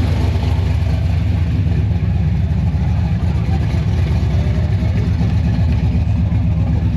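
A large car engine idling with a steady, loud, low rumble.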